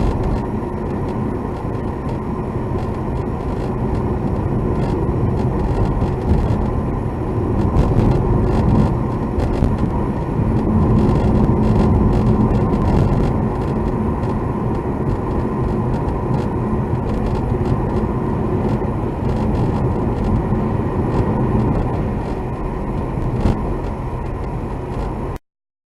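Car cabin noise while driving: steady engine and road rumble, swelling somewhat about a third of the way in, then cutting off suddenly near the end. No distinct abnormal noise can be picked out.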